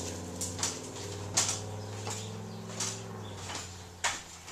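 A steady, low mechanical hum that dies away about three and a half seconds in, with several sharp clicks and knocks on top.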